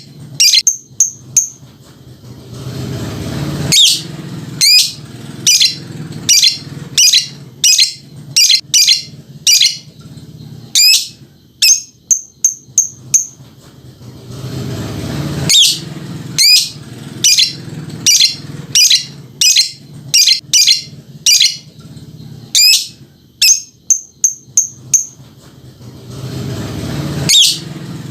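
Lovebird giving its long chattering 'ngekek' call: a series of shrill, sharp chirps about one a second, broken by short runs of quicker, higher notes. The same pattern comes round about every twelve seconds.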